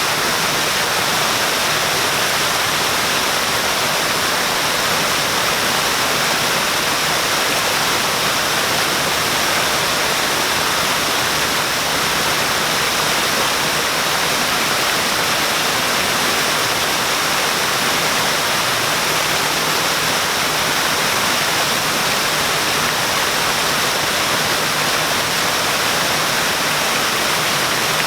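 Waterfall pouring, a steady, even rush of falling water with no change.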